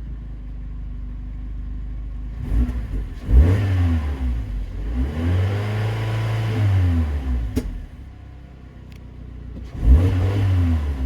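Suzuki Swift Sport ZC32S's 1.6-litre four-cylinder idling through an HKS Legamax Premium aftermarket exhaust, then free-revved while stationary: a short blip about two and a half seconds in, a longer rev that is held for a few seconds before dropping back to idle, and another rev near the end.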